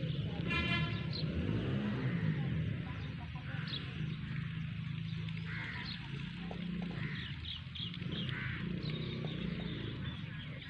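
Birds calling outdoors: one drawn-out nasal call about half a second in, then short chirps scattered through, over a steady low rumble.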